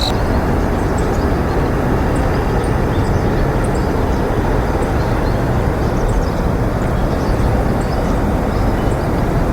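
Steady, loud outdoor rumble with no clear rhythm or pitch, dotted with faint, short, high chirps.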